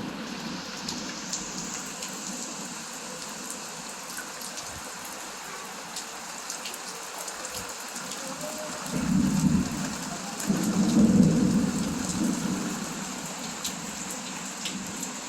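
Heavy rain falling steadily, with drops pattering on surfaces. Thunder rolls in about nine seconds in, rumbles twice and is loudest a couple of seconds later before fading back under the rain.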